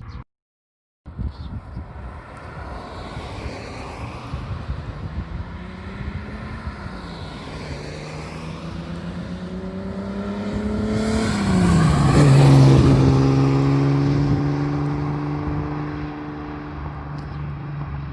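Datsun S30Z's L-series straight-six on Solex carburettors running under way and passing close by. The engine note grows louder to a peak about 12 seconds in, drops in pitch as it passes, then fades slowly.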